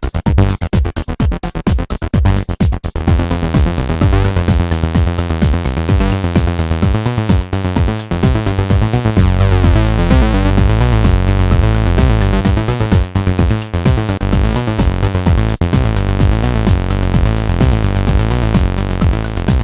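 Two Behringer TD-3 MO analog acid-bass synthesizers playing a stepping bassline in unison, dry with no effects, over a drum-machine beat from a Roland JD-Xi. The pattern is choppy for the first few seconds, then becomes a continuous run of bass notes.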